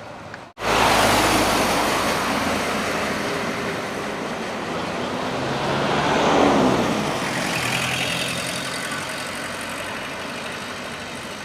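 Highway traffic noise: after a brief dropout near the start, a vehicle passes close by. Its sound builds to a peak about six seconds in, drops in pitch as it goes past, then fades.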